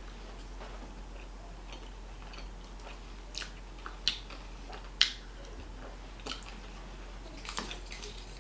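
Close-miked eating: a person biting and chewing fast food, with scattered sharp mouth clicks, the two loudest about four and five seconds in and a few more near the end.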